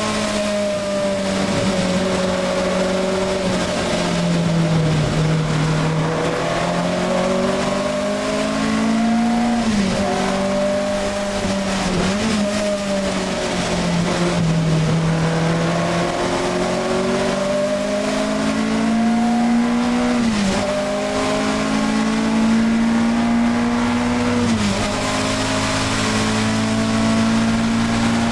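Alfa Romeo 1750 GTV's twin-cam four-cylinder engine under race load, heard from inside the cabin. The revs climb and fall through the laps' corners and drop sharply at each upshift, four times.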